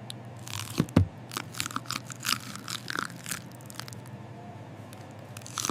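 Cartoon eating sound effects: a quick run of crisp, noisy crunches like food being bitten and chewed. They are densest over the first three seconds or so, then thin out.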